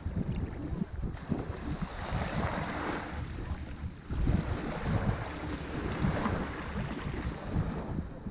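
Ocean surf breaking on a shore, the wash swelling about two seconds in and again about four seconds in, with wind rumbling on the microphone.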